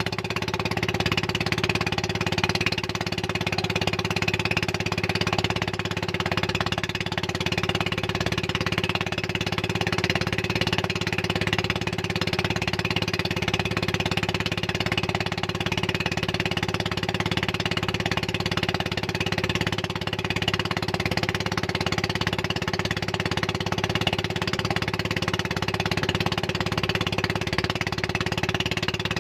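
Motorboat engine running at a steady speed, an even drone that holds without change.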